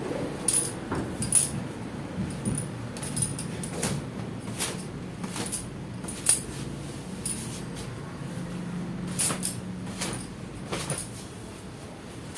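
A thin cotton gamcha towel being snapped and slapped against long wet hair to beat the water out: a string of sharp swishing snaps at irregular intervals, over a low steady hum.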